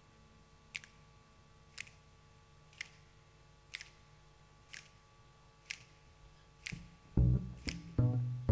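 A steady beat of single sharp clicks, about one a second, keeping time for the song. About seven seconds in, a plucked bass comes in with low notes on the same pulse.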